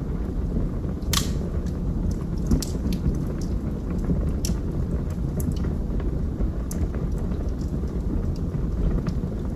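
Wood fire crackling in a fireplace: scattered sharp pops over a steady low rush of burning, with one louder pop about a second in.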